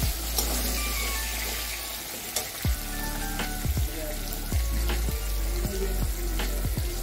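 Potato chunks sizzling in hot oil in an aluminium kadai, with a metal spatula stirring and scraping them at first. Several short knocks sound through the frying.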